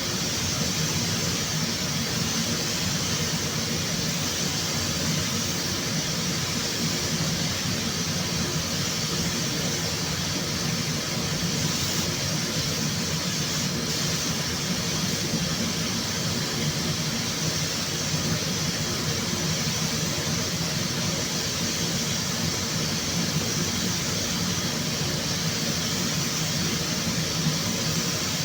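Steady machine noise in a body shop: an even hiss with a low hum underneath, unchanging throughout.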